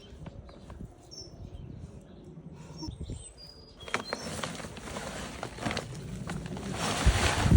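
Hands rummaging and scraping through loose potting soil to find potatoes: a dense rustling with small crunches that starts about four seconds in and grows louder toward the end. Small birds chirp a few times before it.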